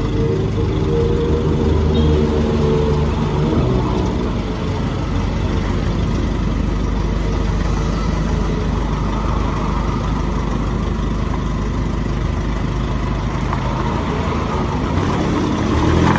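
Nissan Navara pickup's turbocharged engine through a muffler-deleted, free-flow exhaust, with the truck on the move. The engine note is strong for the first few seconds and then settles into a steadier mix of engine and road noise. Near the end it rises again as the truck accelerates.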